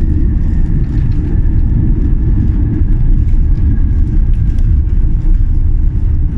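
Airbus A350-900 with Rolls-Royce Trent XWB engines during landing: a loud, steady low rumble of engine and airframe noise, with a faint high whine slowly sinking in pitch.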